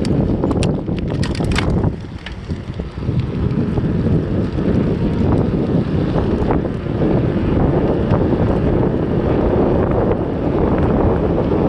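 Wind buffeting the microphone of a camera riding along on a moving bicycle, a steady low rumble, with a few sharp clicks or rattles in the first two seconds and a brief easing about two seconds in.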